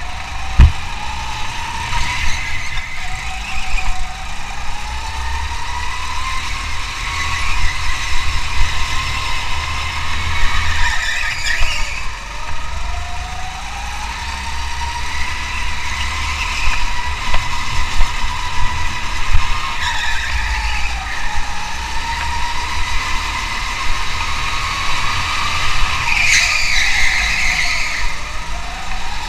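Car engine driven hard at high revs, its pitch climbing slowly under acceleration and dropping sharply several times as the driver lifts, brakes or shifts, over a steady low rumble.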